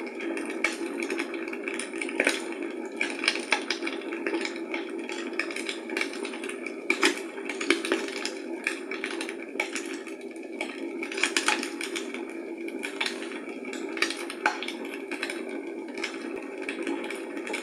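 Fire in a fireplace crackling: irregular sharp pops and snaps over a steady rushing hiss.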